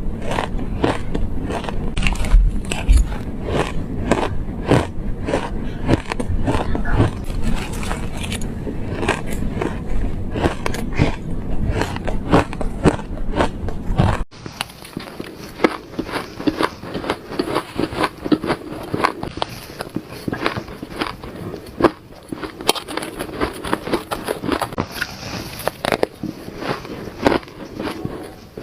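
Shaved ice being bitten and chewed close to the microphone: a dense run of rapid crackling crunches. About halfway through the sound cuts abruptly to a quieter, thinner crunching.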